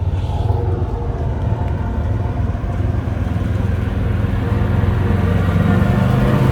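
Car engine idling with a low, steady rumble that grows louder over the last couple of seconds.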